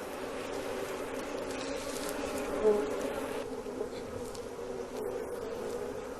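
A swarm of African honeybees buzzing steadily around their raided hive, a dense, even buzz with a brief louder swell in the middle: the bees are agitated and defending the nest.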